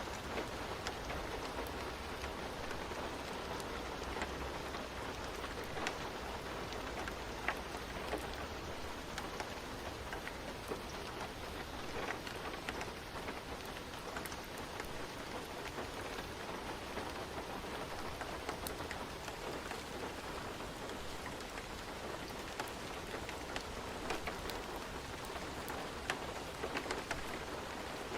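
Steady rain falling on a surface, a dense even patter, with scattered sharp pops throughout and a low rumble that fades out about eight seconds in.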